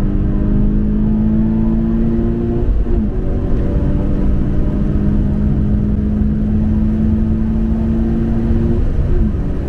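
Toyota 86's 2.0-litre flat-four boxer engine pulling hard on track, its note climbing slowly under acceleration over tyre and wind noise. The note breaks and dips briefly twice, about three seconds in and near the end.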